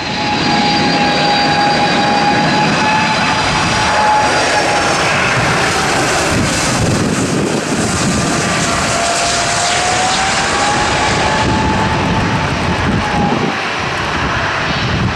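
Boeing 757-200 jet airliner's engines running loud and steady: a dense rushing roar with a whining tone that wavers slightly in pitch and faint high whistles above it.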